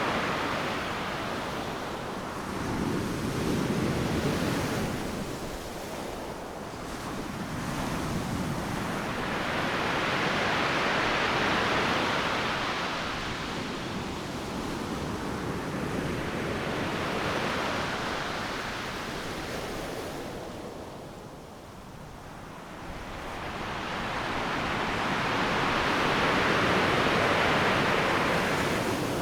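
Ocean surf breaking on the beach: a continuous wash of noise that swells and ebbs as successive waves come in and draw back, with a lull about three quarters of the way through before the next wave builds.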